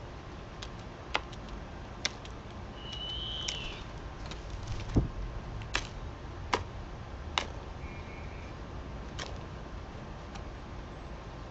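Scattered sharp clicks and taps, about seven in all and the loudest one about five seconds in, with one short bird whistle about three seconds in and a faint chirp near eight seconds, over a steady low background.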